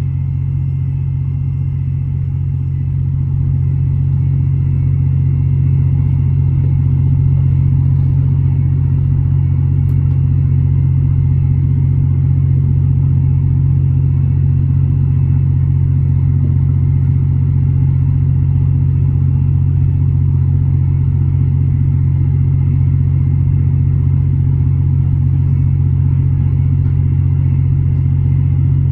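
An engine running steadily with a deep, even drone. It swells slightly in the first few seconds, then holds level.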